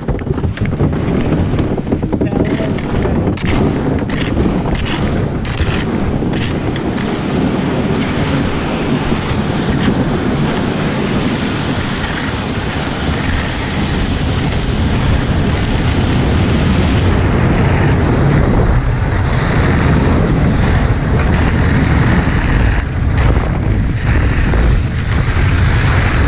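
Wind buffeting the microphone: a loud, continuous rush with a heavy low rumble.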